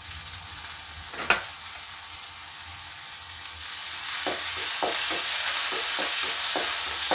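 Chopped tomato and onion sizzling in shallow oil in a metal kadai, with one sharp knock about a second in. From about four seconds a wooden spatula stirs them, knocking and scraping against the pan, and the sizzling grows louder.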